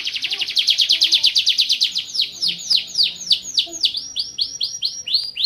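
Van Hesterling-line domestic canary singing: a rapid high trill that about two seconds in breaks into a series of repeated falling notes, about five a second.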